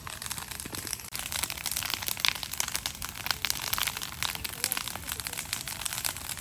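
Large bonfire crackling: a dense, unbroken run of sharp pops and snaps as the fire burns high.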